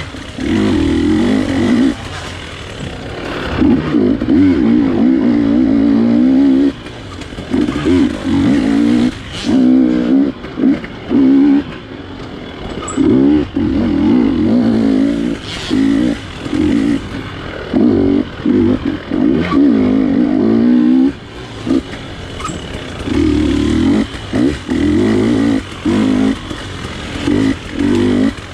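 GasGas dirt bike engine revving in repeated short bursts of throttle and dropping back between them, again and again, the way an engine sounds on a tight, technical trail.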